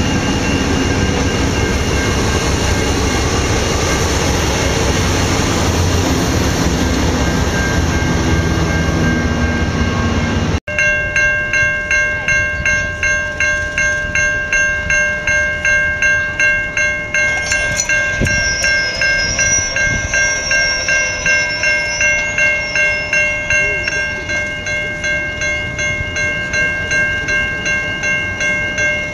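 A train rolls past close by, the diesel locomotive at its rear running amid the rumble of the wheels. About ten seconds in the sound cuts to a level-crossing bell ringing steadily, about two strokes a second.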